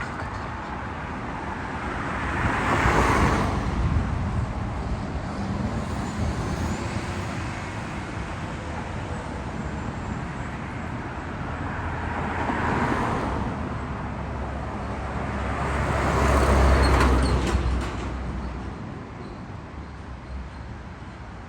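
Road traffic: vehicles passing one after another over a steady low rumble. Three pass-bys swell and fade, one about three seconds in and two in the second half, the last with the deepest rumble.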